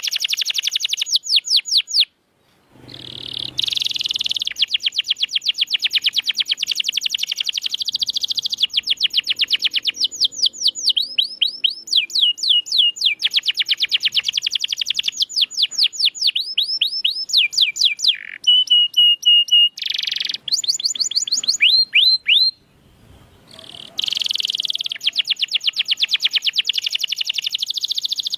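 Domestic canary singing in long, fast, rolling trills of repeated high notes, breaking off briefly about two seconds in and again near the end.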